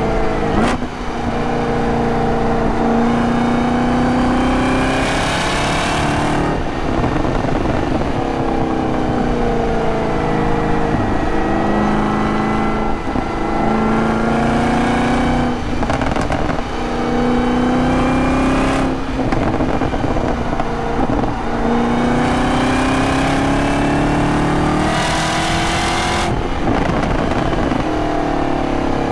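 The supercharged 6.2-litre V8 of a 2023 Camaro ZL1 with a six-speed manual, driven hard. Its pitch climbs under throttle and drops sharply several times, at gear changes and lifts, with short stretches of falling revs between.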